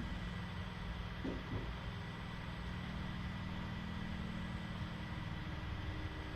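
Steady low machine hum with a light hiss, with two faint short sounds about a second and a half in.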